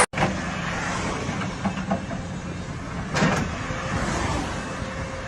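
Vehicle engine running steadily, with a few light clicks and one sharp knock about three seconds in.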